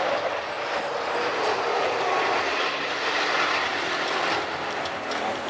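Diesel racing trucks running on the circuit: a steady, dense engine noise that swells slightly about two to four seconds in.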